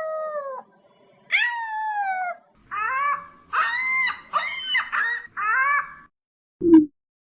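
Animal calls: a series of high, whining cries that fall in pitch. Two longer calls come first, then four shorter ones, and one brief low grunt near the end.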